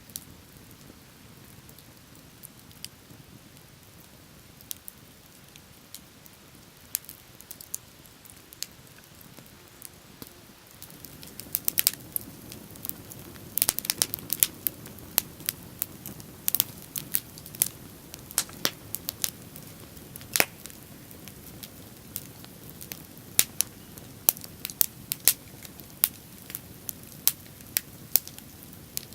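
Wood bonfire crackling with sharp pops, sparse at first; about eleven seconds in it gets busier, with a low rushing of flame under frequent loud pops.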